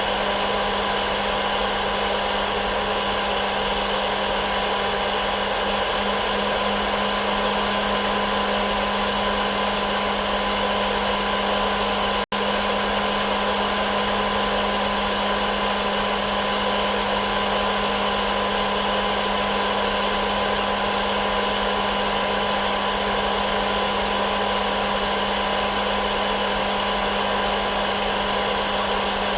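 Hair dryer running steadily, an even rushing blow with a constant hum under it. It cuts out for an instant about twelve seconds in and carries straight on.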